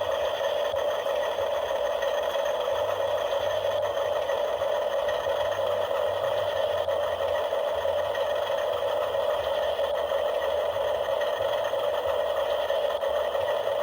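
A small electric motor whirring at a steady, unchanging pitch.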